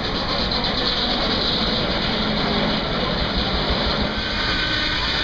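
Case steam traction engine belt-driving a circular sawmill, the engine and saw rig running steadily together.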